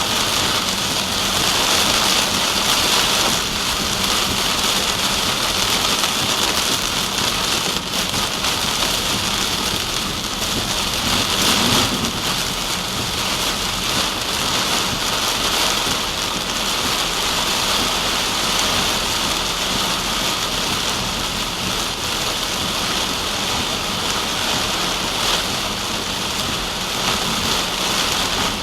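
Steady hiss of rain striking a moving car, with no rise or pause.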